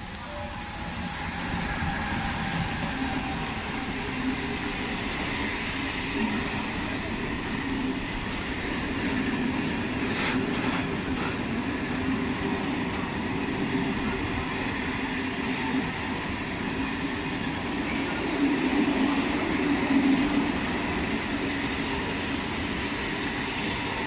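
Freight train of container and tank-container flat wagons, hauled by an electric locomotive, passing close by with a steady rumble of wheels on rail. The sound swells as the locomotive arrives, and there are a few clicks of wheels over rail joints about ten seconds in.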